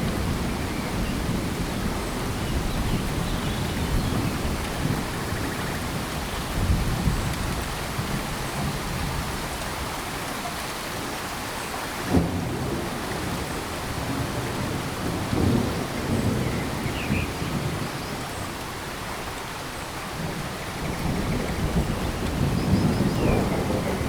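Steady rain falling on tropical forest, with a low, uneven rumble underneath and a single sharp thump about halfway through.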